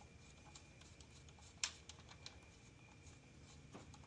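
Near silence with a few faint metal clicks, one sharper than the rest about one and a half seconds in: a connecting rod cap nut and lock washer being worked by hand on an engine block.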